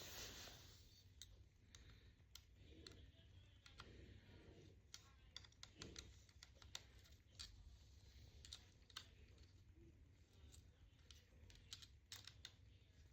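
Faint, irregular light clicks and taps at a near-silent level, over a low hum.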